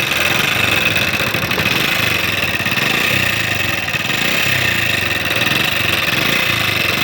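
Honda CD70's single-cylinder four-stroke engine idling steadily with extra mechanical noise, a sign of oil not reaching the cylinder head because of a worn oil-pump gear, with the timing chain rubbing.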